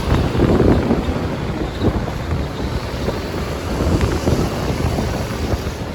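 Wind buffeting the microphone of a passenger riding a motorbike taxi, over the steady running of the motorbike and surrounding traffic, with a louder gust about half a second in.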